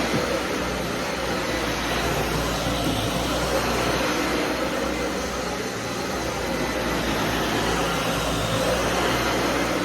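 Vacuum cleaner running steadily, its motor hum under a constant rush of air, swelling and easing slightly as it is pushed over the floor.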